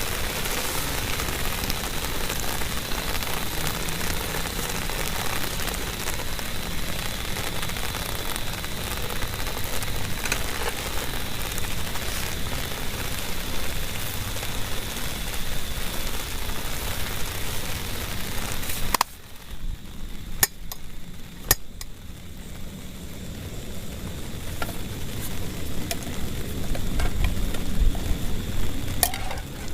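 Heavy rain falling in a dense steady hiss. About two-thirds through it drops suddenly to a softer patter with separate sharp drop strikes, and a low rumble builds near the end.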